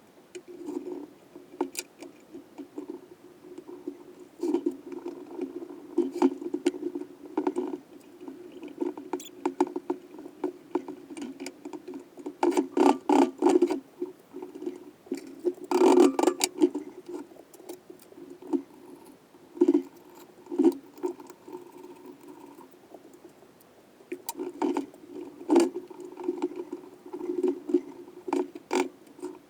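Irregular clicking and rattling of metal engine parts and hand tools being handled during engine assembly, in uneven bursts with a few louder clusters of rapid clicks.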